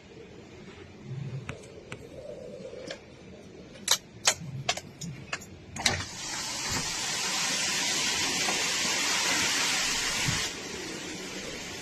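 Typhoon wind and heavy rain: a few sharp knocks and taps, then a loud rushing surge of wind-driven rain about halfway through that drops off abruptly near the end.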